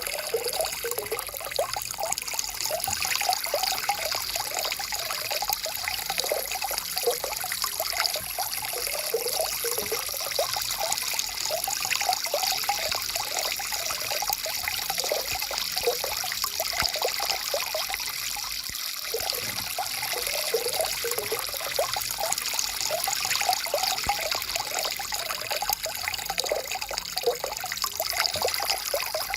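A stream of water flowing steadily, with a constant trickle and many small bubbling splashes.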